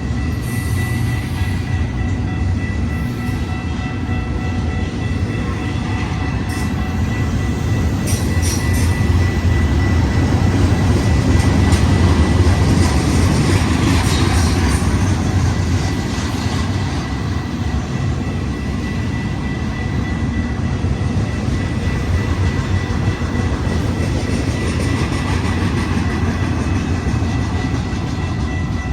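Intermodal freight train rolling past at close range: a steady rumble of wheels and cars on the rails, with a thin high-pitched ring held throughout. It swells louder about halfway through, and a few sharp clicks come just before.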